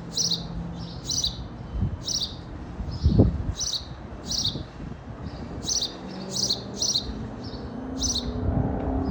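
A house sparrow chirping: short, repeated chirps at roughly two a second, in uneven runs. Under it is a low background rumble, with one louder low thump about three seconds in.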